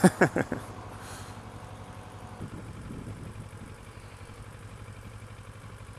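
Kawasaki ER-6f's parallel-twin engine idling steadily, heard through a helmet-mounted microphone.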